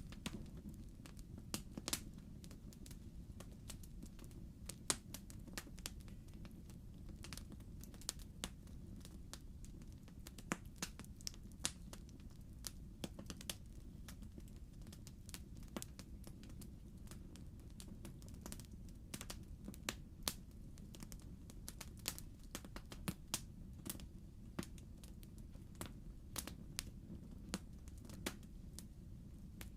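Wood fire crackling in a fireplace: irregular sharp pops and snaps, several of them louder, over a steady low rumble of the flames.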